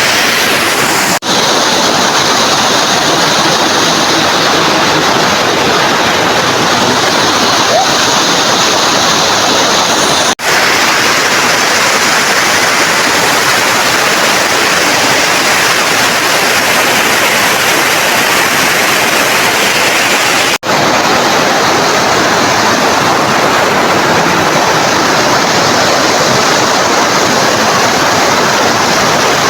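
River water rushing, a loud steady rush that cuts out for an instant three times: about a second in, about ten seconds in and about twenty seconds in.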